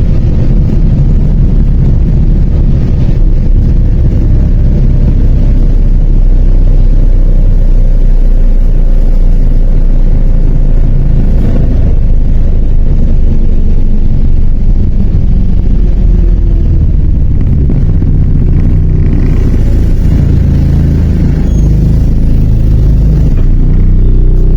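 MAZ 103 city bus under way, heard from inside the passenger cabin: a steady low rumble of engine and road noise with no sharp events.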